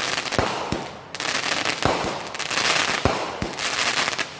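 Aerial fireworks going off: five deep booms, some in quick pairs, over a continuous dense crackle from the bursting shells.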